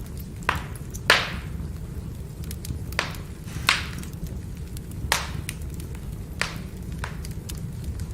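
Firewood burning, with a steady low rumble and sharp crackling pops every second or so, the loudest about a second in, among many faint ticks.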